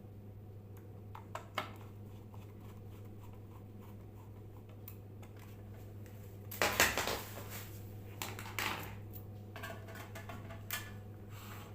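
Small metal parts and tools clinking and clattering as they are handled, loudest about seven seconds in, over a steady low electrical hum.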